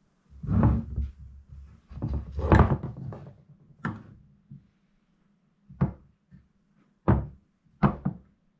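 Knocks and clatter of tools and engine parts being handled and set down on a workbench: a stretch of busy handling noise in the first few seconds, then single sharp knocks about every second or so toward the end.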